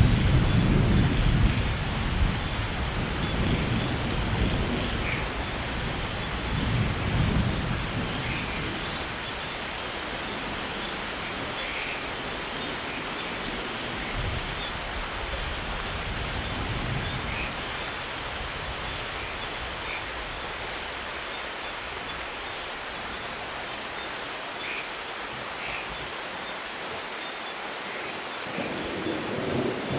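Steady rain falling in a thunderstorm, with low rolls of thunder in the first few seconds and again about a quarter of the way in. The thunder fades to plain rain through the middle and builds again near the end.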